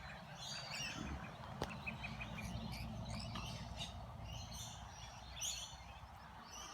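Lorikeets screeching and chattering, short harsh calls following one another every second or so over a low rumble, with a single sharp click about one and a half seconds in.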